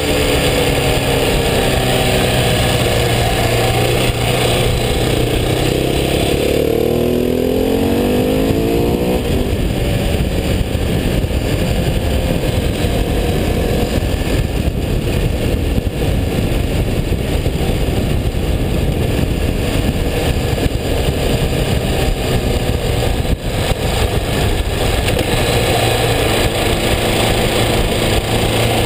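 KTM 690 SMC single-cylinder supermoto engine under way, its pitch shifting as it is worked through the bends. About ten seconds in, heavy wind noise on the mic at speed covers the engine, and the engine tone comes back through near the end.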